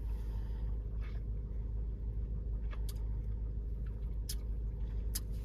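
Steady low hum of a car idling, heard from inside the cabin, with a few short sharp clicks in the second half.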